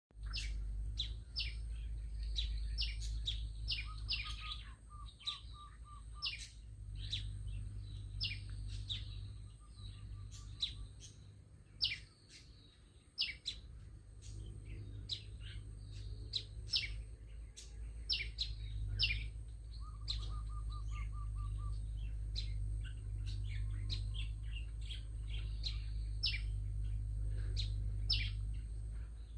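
A small bird calling loudly with rapid, sharp chirps that sweep down in pitch, repeated in quick clusters, now and then breaking into a short, fast trill. A steady low hum runs underneath.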